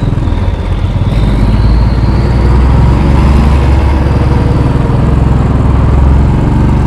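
Royal Enfield Bullet 500's single-cylinder engine running steadily as the motorcycle is ridden, heard from the rider's helmet, with a broad rush of wind and road noise.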